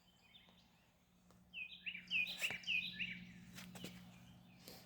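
A bird calling outdoors: after a quiet first second and a half, a quick run of five or six short chirps, then a few faint clicks.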